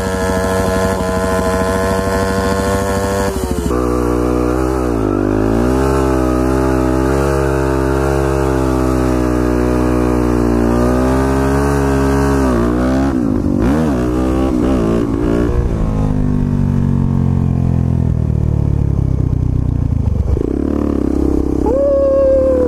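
Motorcycle engine running hard at high revs, held steady at first, then its pitch swinging up and down as the throttle is worked.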